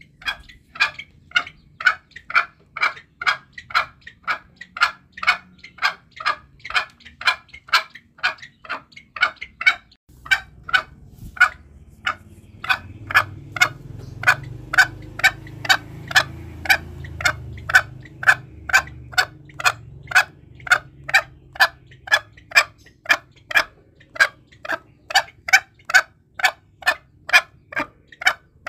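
Green junglefowl clucking in a fast, even series of short, sharp clucks, about two to three a second: a recorded call used to lure the birds for hunting. A low rumble runs underneath midway through.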